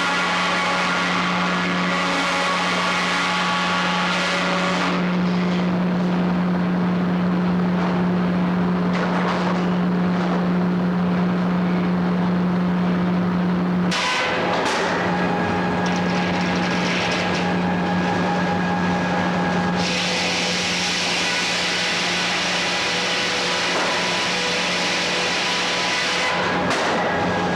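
Frick 00 sawmill machinery running at a steady speed: a constant low hum under a rushing noise that changes several times, briefly breaking just after the middle.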